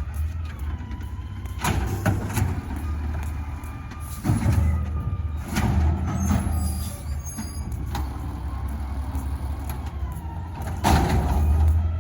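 Garbage truck running steadily with a low engine hum, broken by several short loud bursts of hiss and clatter, about two, four and a half, six and eleven seconds in.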